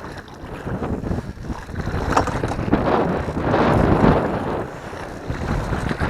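Strong wind buffeting the microphone, a dense rumbling rush that swells into a louder gust about halfway through.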